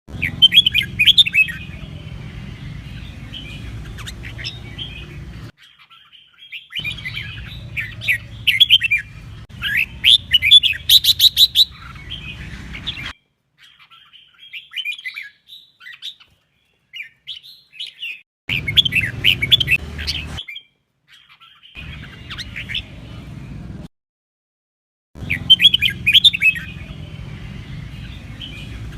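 Red-whiskered bulbuls singing in quick, loud whistled phrases, heard in several clips that break off abruptly into silence and start again. A low hum runs under the louder clips.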